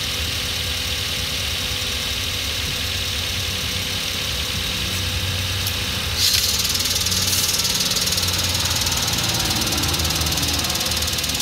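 2006 Hyundai Elantra four-cylinder engine idling. About six seconds in, a louder high-pitched noise joins and keeps going as the clutch is worked to get into gear. It comes from a clutch whose damper spring has failed and come loose from the clutch disc.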